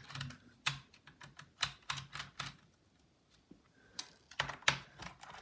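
Irregular light clicks and taps of a screwdriver and hands working on the plastic case of an HP Pavilion dv6000 laptop while it is being taken apart, with a short quiet pause about halfway through.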